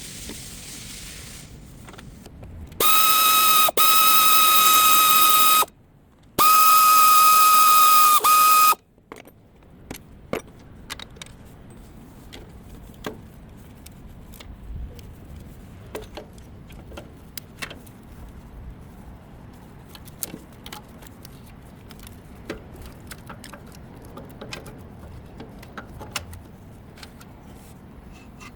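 A loud, steady, high whistle-like tone sounds twice, each for about three seconds, starting and cutting off abruptly with a brief silence between. Scattered light clicks and taps follow.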